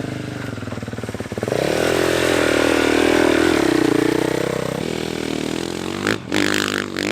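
Dirt bike engine running, then opened up hard about one and a half seconds in and held at high revs for a few seconds before easing off, with brief drop-outs near the end.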